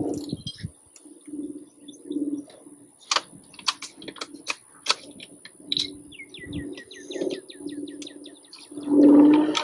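Birds chirping, with a fast trill of chirps just past the middle and low cooing that comes and goes; a louder low sound near the end.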